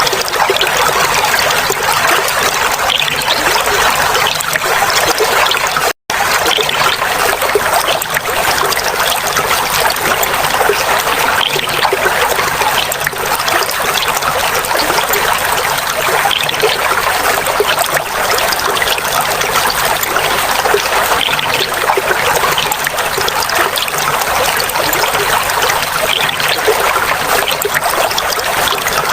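Clear flowing water trickling and babbling steadily. It cuts out for an instant about six seconds in.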